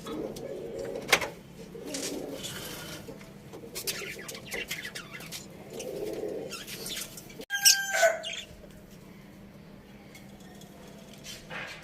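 Pet birds calling with scattered short chirps and rustling. There is an abrupt break about seven and a half seconds in, then a short, sharp pitched call, then quieter.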